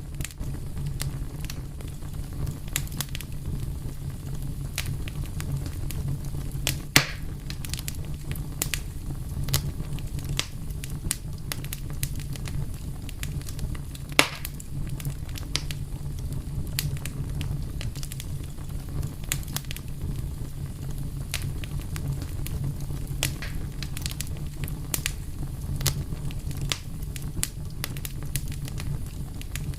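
Wood fire crackling steadily over a low rumble, with frequent small pops and two louder snaps about 7 and 14 seconds in.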